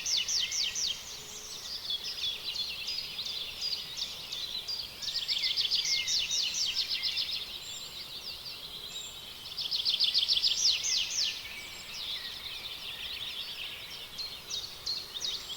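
Birdsong: rapid, high chirping trills in bursts of about two seconds, recurring every few seconds.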